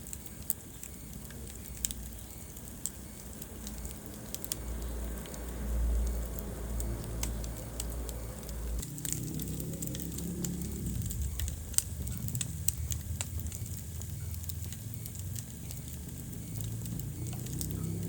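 Wood fire burning in a fireplace, crackling with scattered sharp pops over a low rumble of flames; the loudest pop comes about twelve seconds in.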